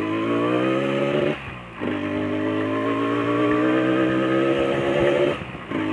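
Yamaha RX-King 135cc single-cylinder two-stroke motorcycle engine pulling under way, its note rising steadily; the engine sound drops away briefly twice, about a second and a half in and near the end, before picking up again.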